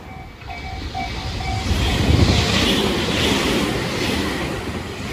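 Japanese level-crossing warning bell ringing in quick repeated dings. About two seconds in, a train rushes through the crossing, and the loud rushing noise of its passing cars rises and falls in waves.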